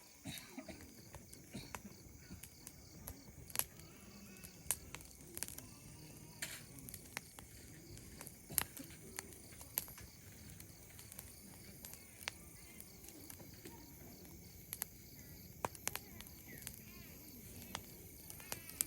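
Campfire crackling: wood burning with irregular sharp pops and snaps, some of them louder, over a faint steady background.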